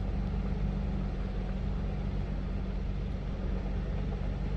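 Vehicle engine idling steadily: a low, even hum that does not change.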